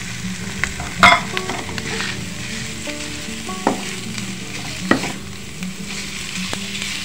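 Ground beef and diced vegetables sizzling in a hot wok, stirred with a wooden spatula. The spatula scrapes against the pan with a few sharp strokes, the loudest about a second in.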